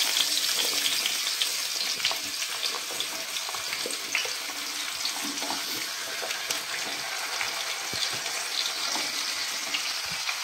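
Chopped vegetables sizzling steadily in hot oil in a pan as they are tipped in by hand, with scattered light clicks of pieces dropping in.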